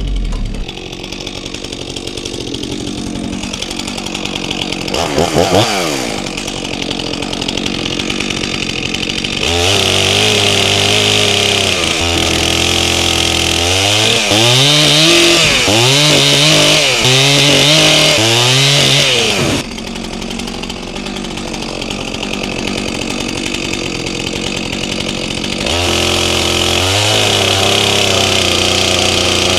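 Stihl MS400C two-stroke chainsaw idling with a short rev, then run at full throttle through a log for about ten seconds, its pitch dipping and recovering under load, before dropping back to idle and revving up again near the end: bucking a log into firewood rounds.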